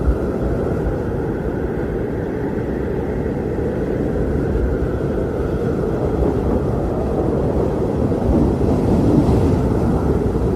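Strong blizzard wind blowing steadily, a deep rushing roar with a faint higher howl above it, swelling a little near the end.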